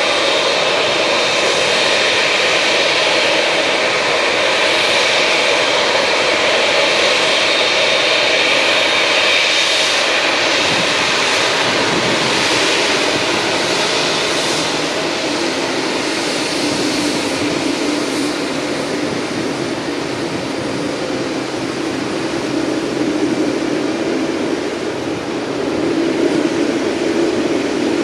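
Heavy jet airliner landing, its engines making loud, steady jet noise. A high whine stands out for roughly the first ten seconds, then fades, and a lower tone grows stronger in the second half.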